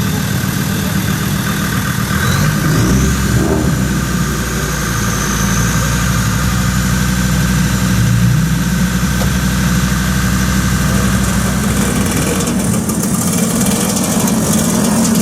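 Car engine idling steadily, its low note deepening about three seconds in.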